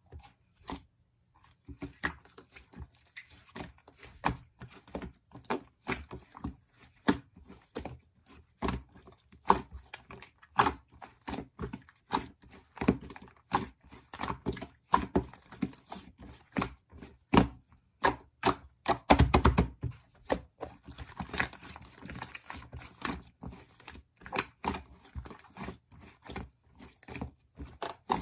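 Irregular small taps and clicks of objects being handled at close range, with a rapid run of clicks about two-thirds of the way through.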